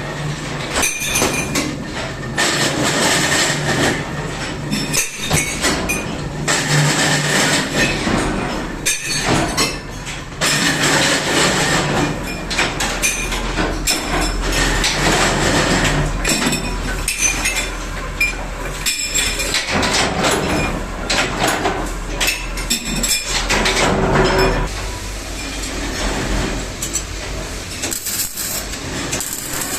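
Repeated metallic clinking and knocking over a continuous machine-like noise with a steady low hum.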